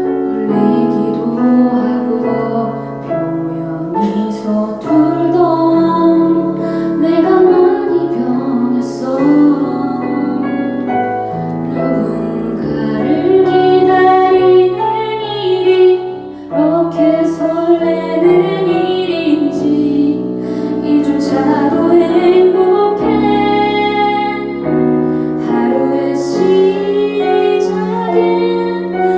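A female voice sings a ballad over piano accompaniment, performed live.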